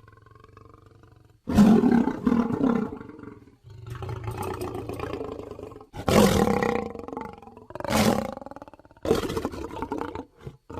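Lion roaring: a faint growl, then from about a second and a half in a run of loud roars, each one to two seconds long, with short breaks between.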